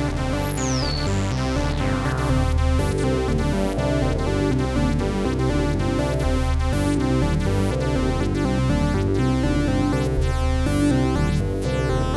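Analogue Solutions Treadstone analogue monosynths playing a sequenced pattern of bass and higher notes with fast repeated note attacks, with falling high pitch sweeps in the first second.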